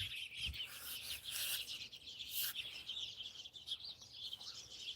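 Small birds chirping and twittering at dusk, faint, over a steady high-pitched chorus of rapid chirps.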